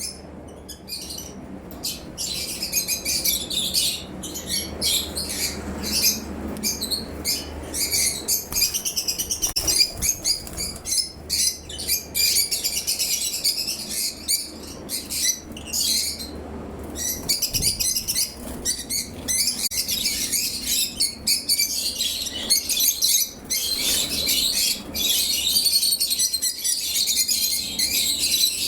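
Lutino orange-face lovebirds chattering: a dense, continuous stream of rapid, shrill high-pitched chirps from several birds.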